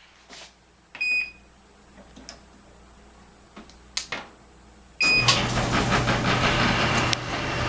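Kenmore HE2 front-loading dryer being started: a short control-panel beep about a second in and a few light clicks, then another beep at about five seconds as the motor starts and the drum turns with a steady hum and running noise. It runs smoothly on its newly replaced idler pulley, sounding pretty decent.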